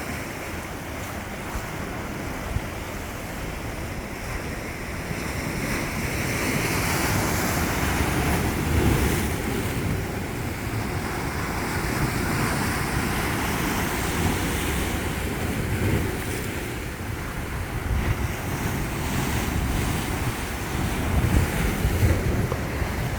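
Sea waves washing against the shore, swelling and easing every few seconds, with wind buffeting the microphone.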